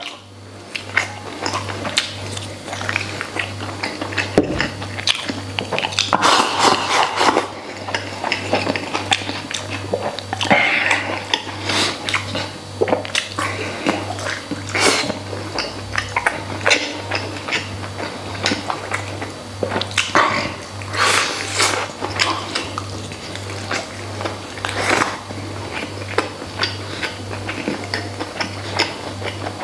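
Close-up mouth sounds of a person biting and chewing braised pork ribs: wet smacks and short clicks, over background music with a steady low beat.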